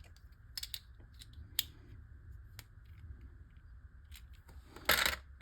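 Scattered small plastic clicks and taps from handling and swapping parts on miniature Beyblade Micros toy tops, with one louder clatter about five seconds in.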